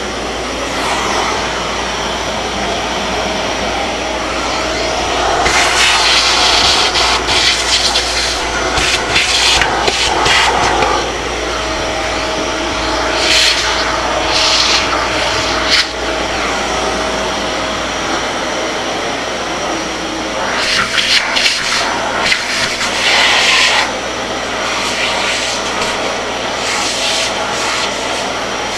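Kärcher MV 6 P Premium wet-and-dry vacuum cleaner running with a continuous rushing airflow noise. Louder, hissier stretches come and go three times, about five seconds in, around thirteen seconds, and again after twenty seconds.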